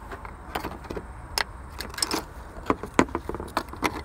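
Irregular light clicks and clinks of small hard objects being handled, about a dozen of them, the loudest about three seconds in, over a low steady hum.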